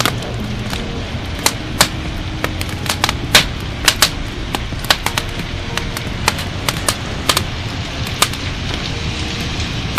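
Wood fire crackling in a fireplace: sharp irregular pops, several in a second at times, over a steady low rumble.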